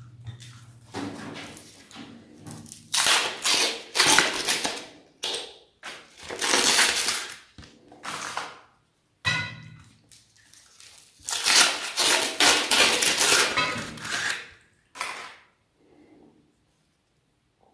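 Meat grinder crushing a Cornetto ice cream cone: crunching and crackling in repeated bursts with short pauses between them, and a brief low hum near the start and again about halfway through.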